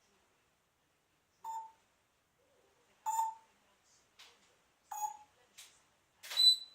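Parrot giving a series of short, sharp beep-like calls a second or two apart, the last one near the end the loudest and highest.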